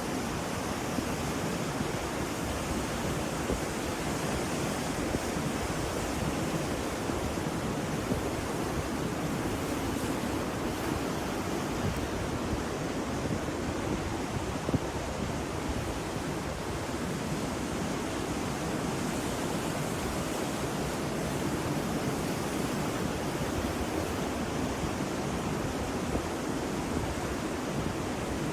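Ocean waves breaking on a shore, a steady wash of surf.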